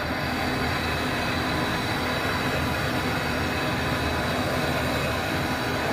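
Brazing torch flame burning with a steady, even rushing hiss while copper AC piping is brazed.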